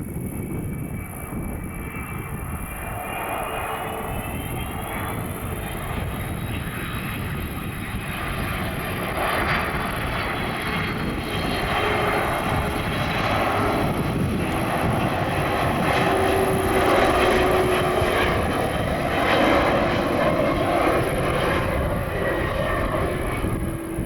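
Jet airliner passing close by, its engines' rumble building to a peak about two-thirds through, with a high whine that rises in pitch over the first several seconds and then slowly falls.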